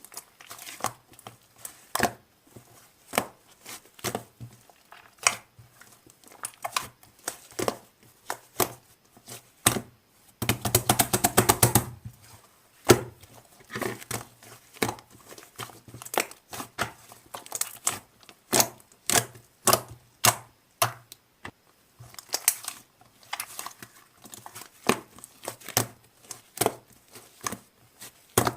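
Slime being squeezed, stretched and poked by hand, giving irregular sticky clicks and pops. Around the middle, and again near the end, it breaks into a quick run of crackling pops.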